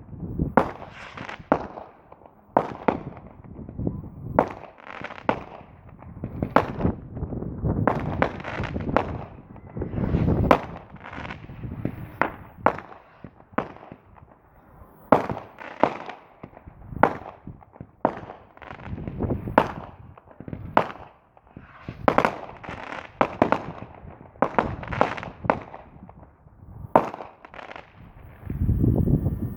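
Fireworks exploding in quick, irregular succession, about one or two sharp bangs a second, each trailing off in a rumbling echo.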